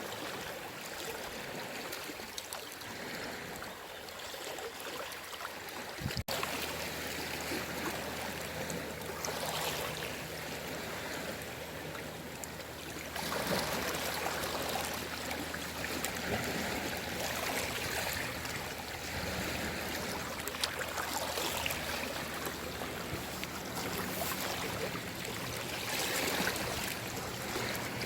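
Sea waves washing onto the shore: a steady rush of water with surges of surf that swell and fall back every few seconds. A brief break about six seconds in, after which a faint low hum runs under the waves.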